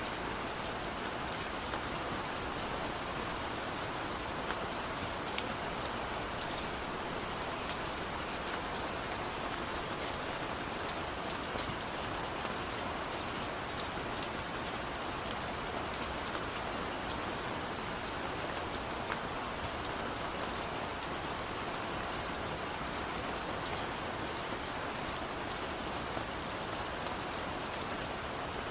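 Steady rain falling: an even hiss sprinkled with many small drop ticks, with no change in level and no thunder.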